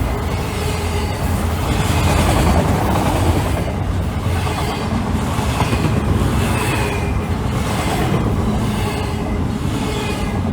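Freight train rolling past on the track, a steady rumble of cars with wheels clattering over the rail.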